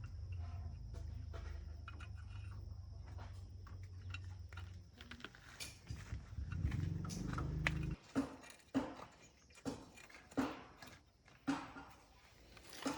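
A steady low motor hum stops suddenly about eight seconds in. A series of short knocks follows, roughly one or two a second.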